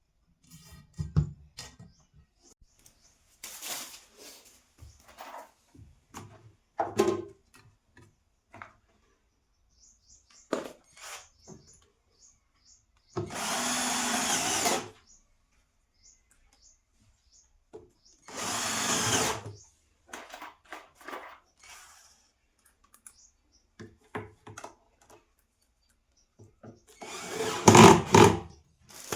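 Small electric power tool running in two short bursts of about two seconds each, amid scattered clicks and knocks of parts being handled, with a louder cluster of knocks near the end.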